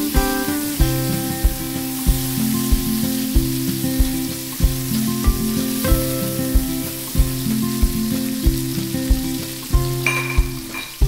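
Shrimp and garlic sizzling in hot oil in a wok as they are stirred with a spatula, under background music with a steady beat.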